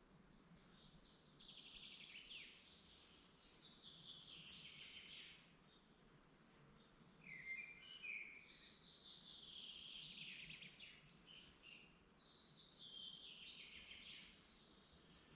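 Woodland songbirds singing faintly: four long trilled song phrases a second or two apart, each falling in pitch, over a low background hiss.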